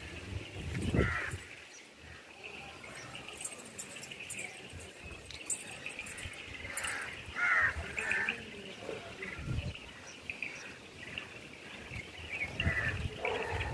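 Birds calling now and then in short chirpy phrases, over a faint steady insect buzz.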